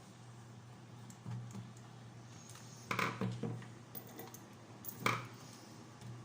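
Plastic parts of a toy's casing being handled and fitted together: scattered clicks and knocks, the loudest about three seconds in and again about five seconds in, over a low steady hum.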